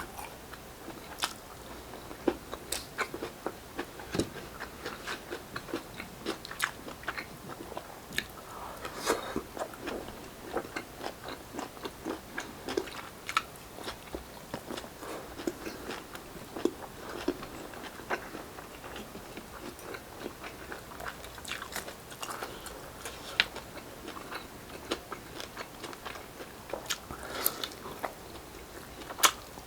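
Close-up mouth sounds of eating grilled Filipino street-food barbecue: steady chewing with many short, crunchy bites and clicks.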